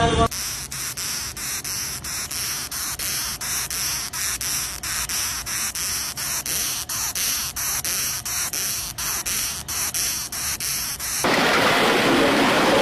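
A rhythmic rasping hiss, like sanding or rubbing, pulsing about three times a second and stopping abruptly near the end.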